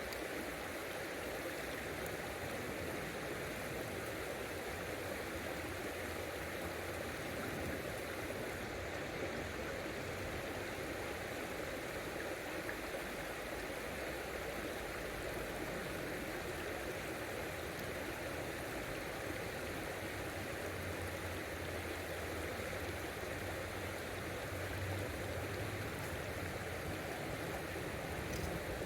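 Steady rushing of a flowing river, an even water noise that holds at one level throughout.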